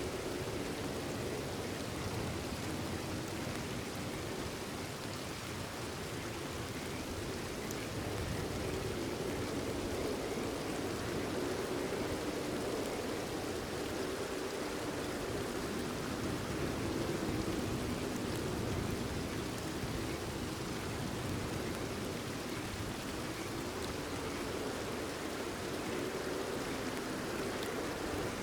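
Steady rain falling, an even hiss with a denser low patter, with a chorus of frogs calling under it.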